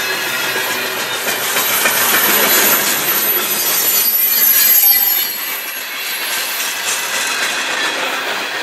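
Freight cars loaded with lumber rolling past close by: the steady clatter of steel wheels on rail, with a high squeal from the wheels that is loudest about five seconds in, then eases.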